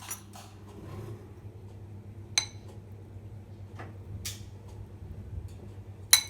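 Kitchen handling sounds: a few sharp clinks of glass and dishware, the loudest near the end, over a steady low hum.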